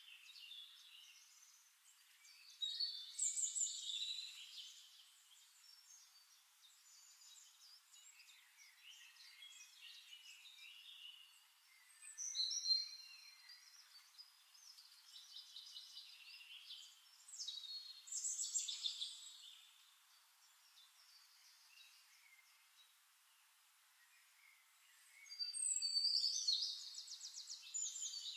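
Birds chirping and singing in bursts of a second or two, with quieter chirping in between; near the end one bird gives a rapid trill.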